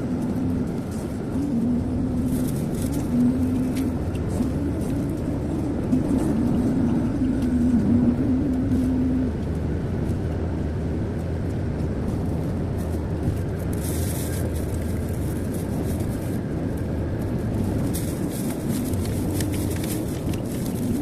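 Road noise inside a moving car: steady engine and tyre rumble with a wavering hum over the first half, and brief hissing bursts about two-thirds of the way through and near the end.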